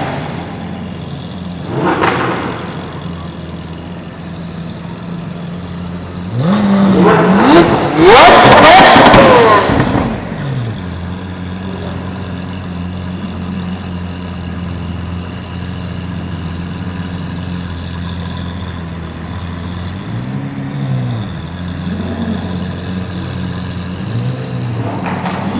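Lamborghini engines idling with a steady low hum, blipped briefly a couple of seconds in. About six seconds in, one is revved hard, its pitch climbing for a couple of seconds and then falling back; this is the loudest part. A few short throttle blips come near the end.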